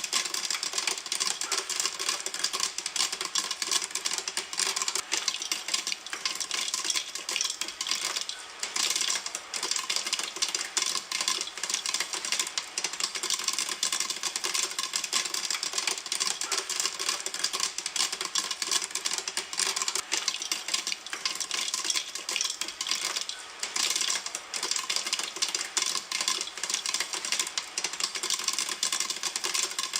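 Popcorn kernels popping in a pan: a dense, continuous crackle of many quick pops, easing for a moment about eight seconds in.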